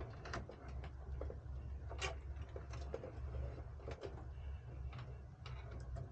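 Scattered light clicks and taps, a few a second and irregular, over a steady low hum.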